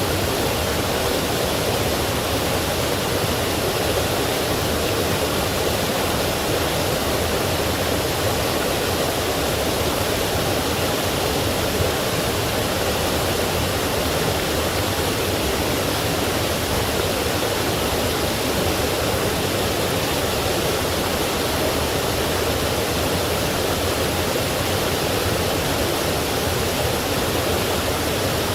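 Forest stream rushing over rocks and small falls, a steady, even rush of water with no breaks.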